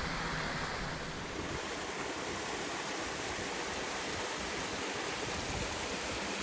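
Waterfall in a gorge, a steady, unbroken rush of falling water.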